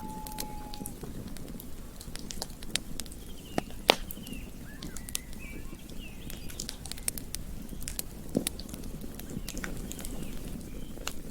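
Campfire crackling: wood snapping and popping in irregular sharp clicks, the loudest pop about four seconds in, over a steady low rush of burning. A few faint chirps sound in the middle.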